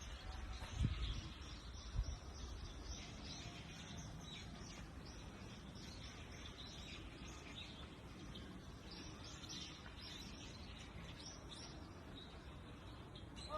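Small birds chirping faintly and repeatedly in high, short notes. There are a couple of low bumps in the first two seconds.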